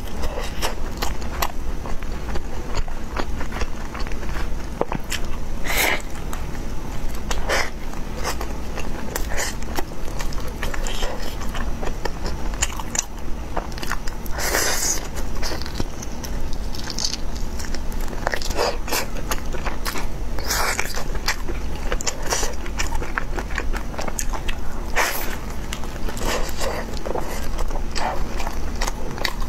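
Close-miked eating: biting and chewing food, with many short, irregular clicky mouth sounds over a steady low hum.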